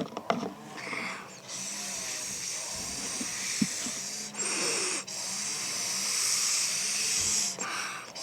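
Blow pen markers being blown through to spray ink: long, breathy hissing puffs, about three of them with short pauses for breath between.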